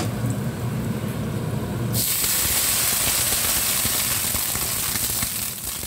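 Oil sizzling in a stainless steel wok with garlic, jumping to a loud, steady sizzle about two seconds in as broccoli florets go into the hot oil and are stir-fried with a spatula.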